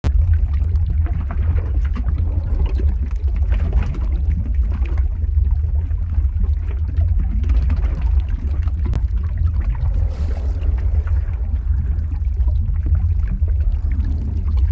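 Lava ambience sound effect: a deep, steady rumble under a dense bubbling, crackling noise with many small pops.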